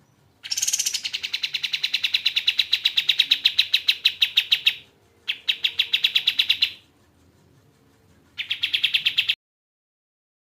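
Kapas tembak (pied triller) singing: three bouts of rapid, evenly repeated chirping notes, about ten a second. The first bout lasts about four seconds, and two shorter bouts follow.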